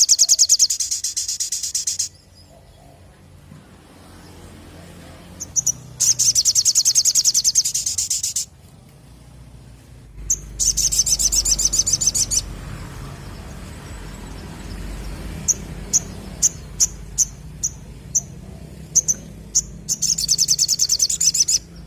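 A sogon (sogok ontong) bird singing: four rapid, high trills of about two seconds each, and between the third and fourth a run of short, sharp single chirps about two a second.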